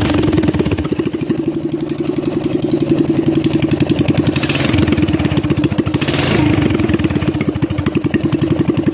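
Coleman CT200U-EX mini bike's small single-cylinder four-stroke engine running through its new aftermarket exhaust, just after a start on choke, with a steady pulsing note. It surges briefly twice in the middle.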